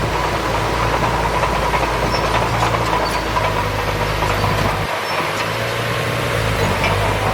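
Diesel engine of heavy earthmoving machinery running steadily, a low engine hum. The deepest rumble drops away briefly about five seconds in.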